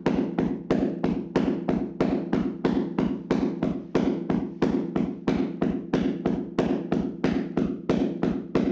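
Hands slapping and tapping rapidly on a person's body in a percussive massage: a steady rhythm of dull thuds, with a stronger stroke about every half second and lighter taps between.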